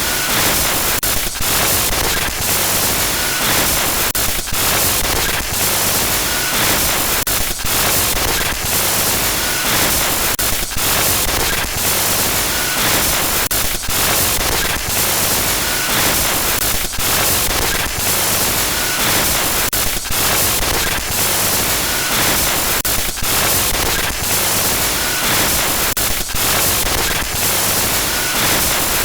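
Loud, steady glitch noise: harsh static hiss spread across the whole range, broken by brief irregular dropouts and crackles, with a short faint tone about every three seconds.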